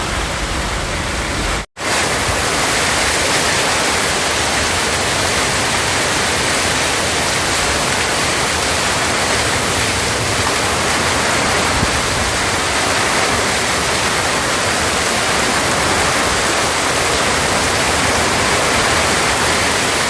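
Heavy rain pouring in a strong wind, a steady dense hiss with no thunderclaps; the sound drops out for a split second just under two seconds in.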